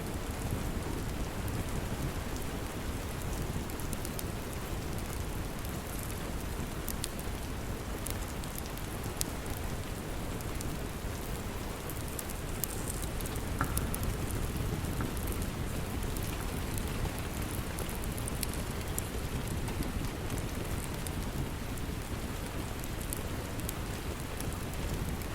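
Steady rain with a wood fire crackling: an even, continuous rush of rain, sprinkled with small sharp pops and ticks.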